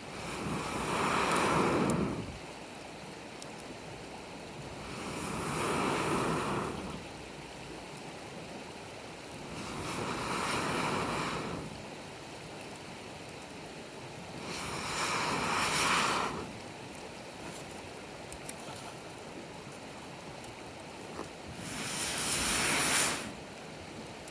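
Air blown into a wood campfire in five long breaths, each a rushing swell of about two seconds that rises and then breaks off, over the fire's steady low hiss.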